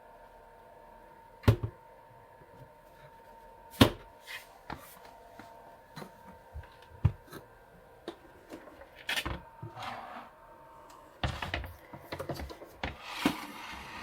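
Handling knocks and clicks over a faint steady hum: two sharp knocks, the first about a second and a half in and the second near four seconds, a scatter of lighter clicks, then a busy run of knocks and rattles near the end, typical of a small appliance's door and parts being handled.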